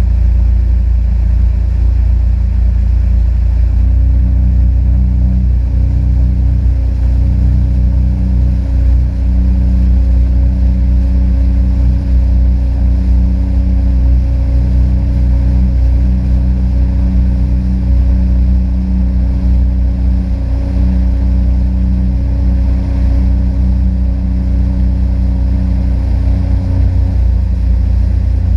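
Sea-Doo RXP-X 260 jet ski's supercharged three-cylinder engine running under way with a heavy low rumble, held at a steady pitch from about four seconds in until near the end.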